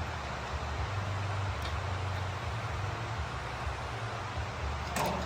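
Steady low rumble with a constant hiss, and a short sharp click near the end.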